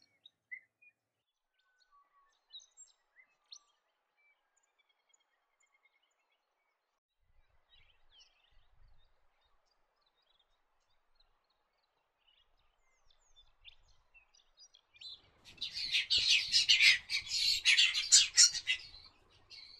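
Southern whiteface calling: faint, scattered high chirps, then about fifteen seconds in a dense burst of rapid twittering from several birds for about four seconds.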